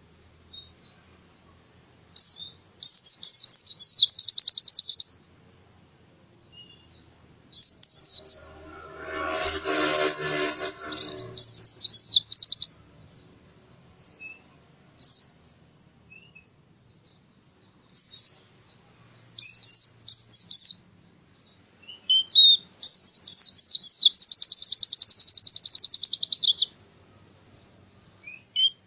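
A pleci (white-eye) singing high-pitched, in long rapid trills and shorter chirping phrases with gaps between them. A lower, rougher sound comes in briefly under the song about nine to eleven seconds in.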